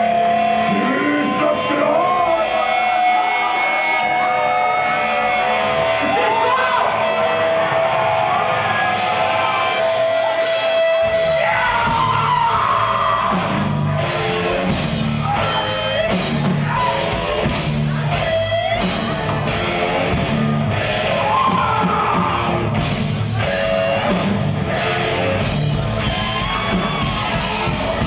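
Progressive death metal band playing live in a large hall, with shouted and sung vocals over guitar. The first stretch is held notes; drum hits come in about nine seconds in, and the full band with heavy bass and drums takes over a couple of seconds later.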